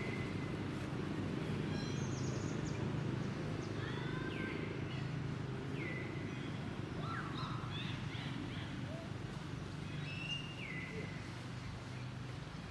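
Short high chirping animal calls, several sliding down in pitch, scattered irregularly over a steady low hum.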